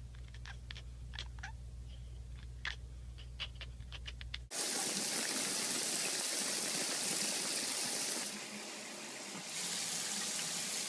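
Light clicks and taps over a steady low hum. About four and a half seconds in, this gives way suddenly to the steady, louder rush of running water, which dips briefly near the end.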